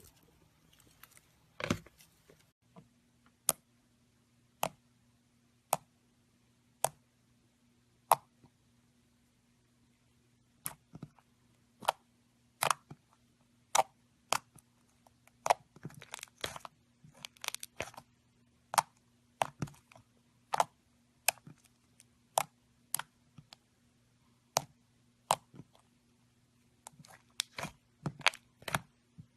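Slime being worked by hand, giving sharp pops and clicks, single pops about a second apart at first and coming faster in clusters later. A faint steady low hum runs under them from about two seconds in.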